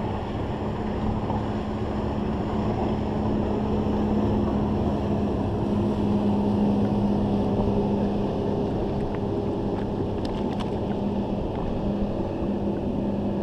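Motorboat engine droning steadily as it passes, building to its loudest around the middle and easing off after, over wind and water noise.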